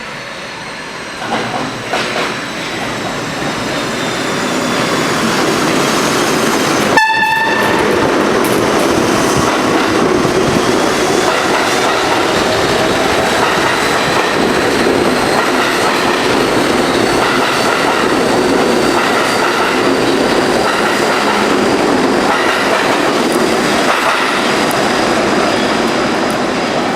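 R32 subway train passing: the wheel and rail noise builds over the first five seconds, then holds as a steady loud clatter of the cars going by. A brief horn-like tone sounds about seven seconds in.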